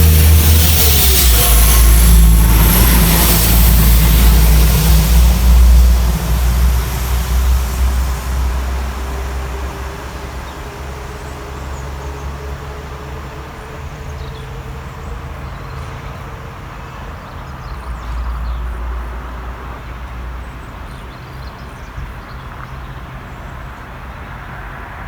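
A train passing, loud for the first six seconds with a deep rumble and a falling tone near the start, then fading away over the next few seconds to a faint steady low hum as it moves off.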